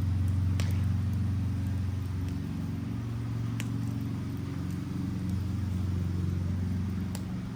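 A burning wooden Adirondack chair giving three sharp crackles, over a steady low hum that is louder than the fire.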